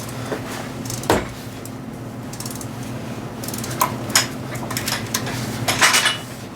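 Hand wrench clicking and clinking against a bolt and metal parts under the car, in scattered irregular knocks, over a steady low hum.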